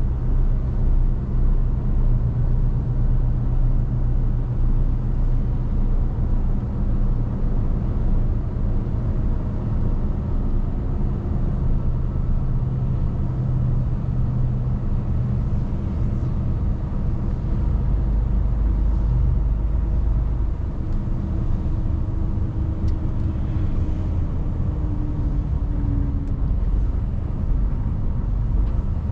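Mercedes Actros truck's diesel engine running steadily as the truck drives, with road rumble, heard from inside the cab. A deeper low rumble swells for a couple of seconds a little past the middle.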